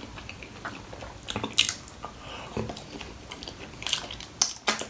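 A person chewing and biting crunchy fried food, with irregular crunches and a few louder crunches near the end.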